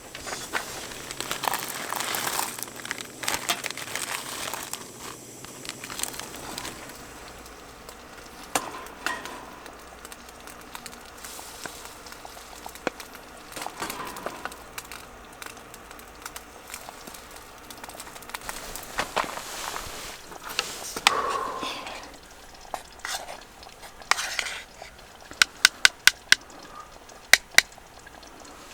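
Crinkling and rustling of packaging being handled, with scattered light knocks and, near the end, a quick run of sharp clicks.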